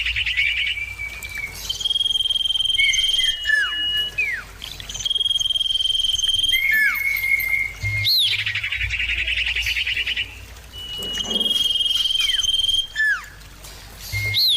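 Common iora (cipoh) singing. Its phrases repeat: long, level drawn-out whistles alternate with short down-slurred notes, a quick rising-and-falling note and a buzzy trill.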